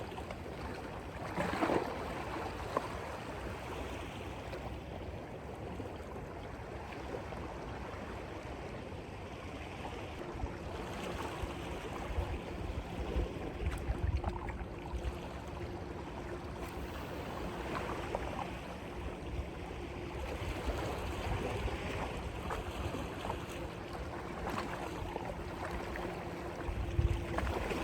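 Sea wash and surf against the rocks, with wind buffeting the phone's microphone in low rumbles. A faint steady hum comes in about ten seconds in.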